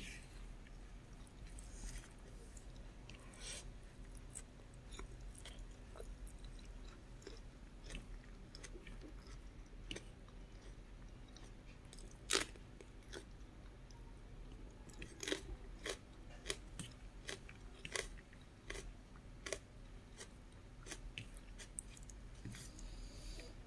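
A person chewing a mouthful of rice, scrambled egg and bacon, with scattered sharp wet clicks and smacks; the loudest click comes about twelve seconds in, and they come more often in the second half.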